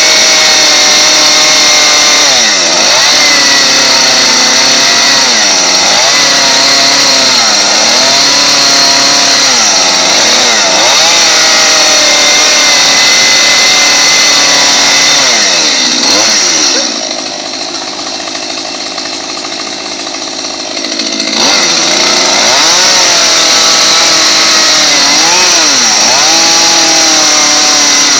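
Chainsaw engine running hard while carving a pumpkin, its pitch repeatedly dipping and rising as the throttle and load change. Roughly two thirds of the way through it falls back to a quieter idle for about four seconds, then revs up again.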